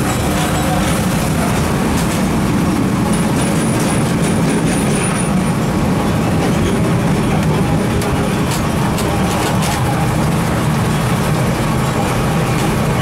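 Steady rumble of a train in motion, heard from aboard an open-air passenger car: the locomotive and the wheels rolling on the rails, with a few sharp clicks about two-thirds of the way through.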